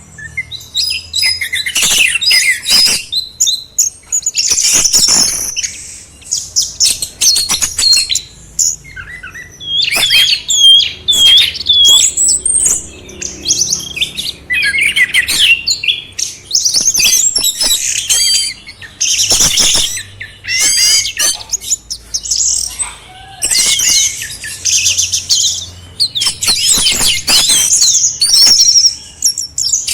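Songbird song played as masteran, the tutor recording for caged songbirds: a dense run of rapid chirps, trills and gliding whistles, delivered in phrases broken by short pauses.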